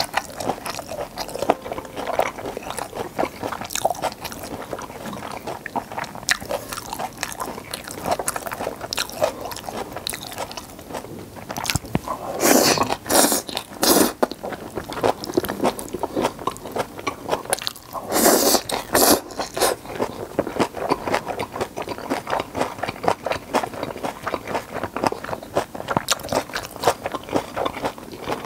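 Close-miked chewing and biting of flower buns and stir-fried pepper japchae: steady wet mouth sounds and small crunches, with two louder bursts of sound about halfway through and again about two-thirds of the way through.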